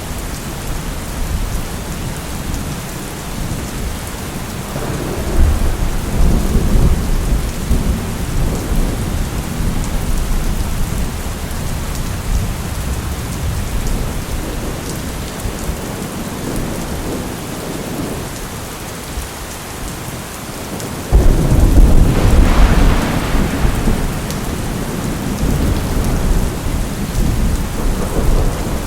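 Steady heavy rain with thunder: a rolling rumble from about five seconds in, then a sudden loud thunderclap about 21 seconds in that rumbles on for several seconds.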